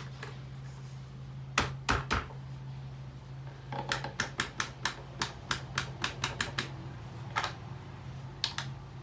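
Damaged table fan running with a steady motor hum and sharp clicking and knocking. Two heavy knocks come first, then a run of about three to four clicks a second, then a few scattered clicks.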